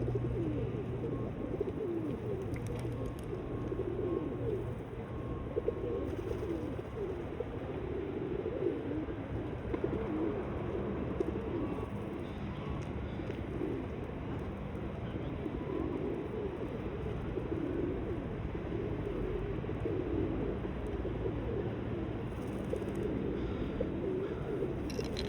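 A flock of pigeons cooing, many low coos overlapping continuously, over a steady low hum.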